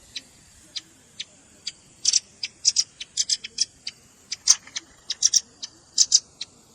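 Velvet-fronted nuthatch (red-billed rambatan) calling: short, sharp, high-pitched chips at irregular intervals, some in quick pairs or triplets.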